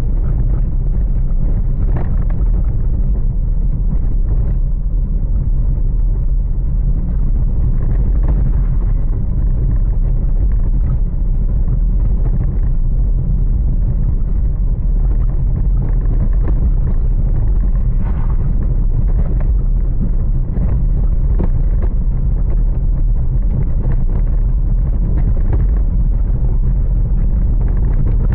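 Strong storm wind buffeting the microphone: a loud, steady low rumble with no let-up.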